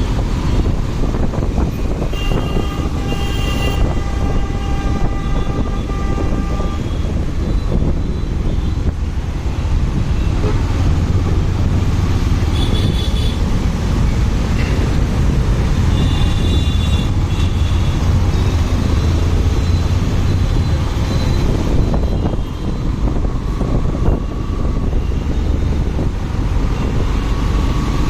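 Steady wind and engine rumble of a motorcycle riding in city traffic. Vehicle horns sound over it: a long one from about two seconds in, and shorter ones around the middle.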